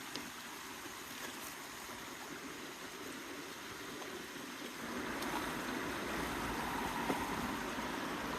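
Creek water running steadily, growing louder about five seconds in.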